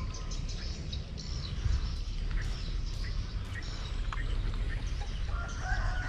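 Wild birds chirping: a fast run of high chirps at the start, scattered short calls, then a short whistled bird call near the end, over a low steady rumble.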